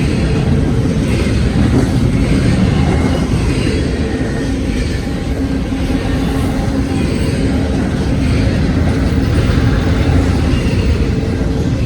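Freight train cars rolling past on a CSX main line, a loud, steady rumble of steel wheels on rail with a steady hum.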